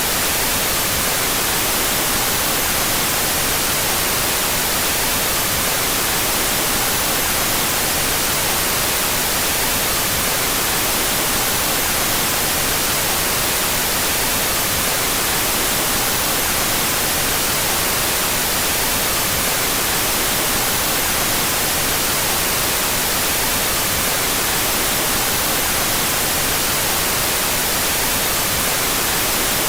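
Steady white noise with its two stereo channels played out of phase. It is an unbroken, even hiss, brightest in the treble, with no change in level.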